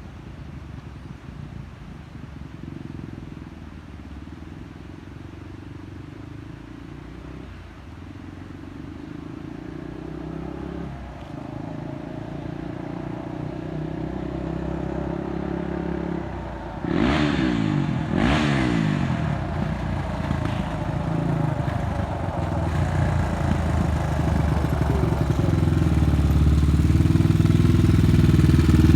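Honda 400EX sport quad's single-cylinder four-stroke engine revving up and down through the gears, growing gradually louder. About seventeen seconds in it passes close with a sudden burst and a quick drop in pitch, then builds louder again near the end.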